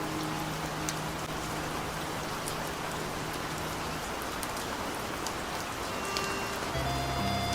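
Steady rain sound: a dense, even hiss of falling rain with scattered drop ticks. A low held note fades out about halfway through, and music comes back in near the end.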